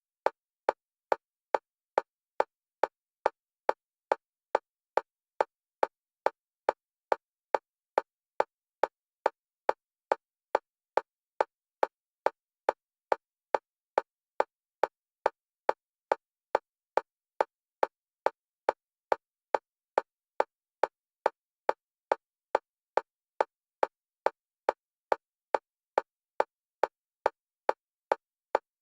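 Metronome clicks at a single pitch, evenly spaced at about two a second, alternating between the left and right stereo channels for EMDR bilateral stimulation.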